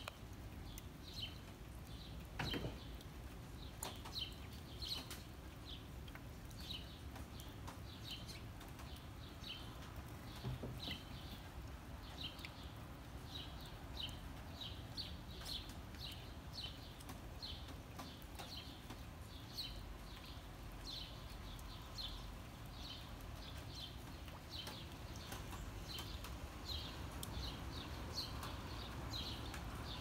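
A songbird chirping over and over, short high chirps at about two a second, over a low steady rumble.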